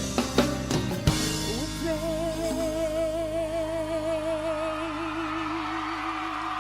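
Live pop band ending a song: a quick run of drum hits, then a long held note with steady vibrato over a sustained chord.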